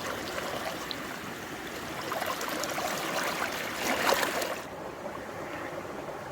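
Water rushing and splashing, with a louder surge about four seconds in; soon after, the sound turns abruptly duller and quieter.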